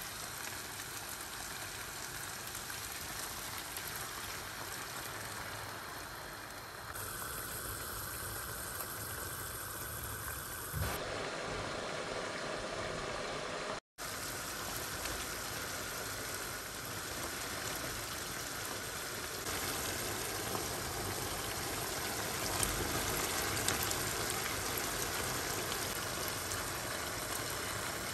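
Chicken strips sizzling in oil in a frying pan, a steady hiss that drops out for an instant about halfway through.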